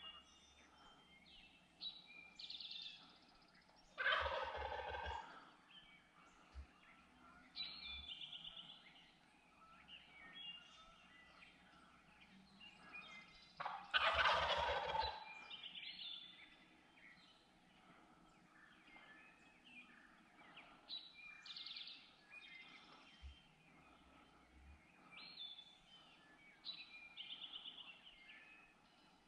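Wild turkey gobbling twice, about ten seconds apart, each gobble a rattling call about a second long. Songbirds chirp between the gobbles.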